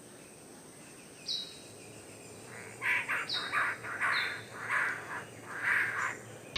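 Bird calls: three short high whistles that drop slightly in pitch, then a quick series of about seven short, harsh calls.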